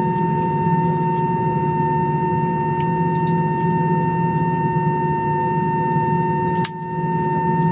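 Aircraft turbine whine: several steady tones over a low hum. About two thirds of the way through it drops briefly, with a sharp click.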